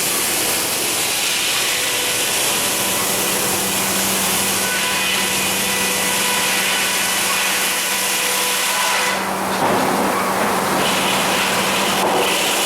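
Sawmill saw cutting through a cedar log, a loud, steady run of sawing noise over a steady machine hum. The hum drops out about nine and a half seconds in.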